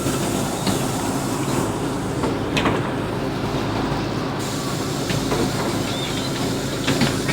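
Inside a LiAZ 5292.65 city bus under way: the steady drone of the engine and running gear, with a few short rattles and knocks, a louder cluster near the end.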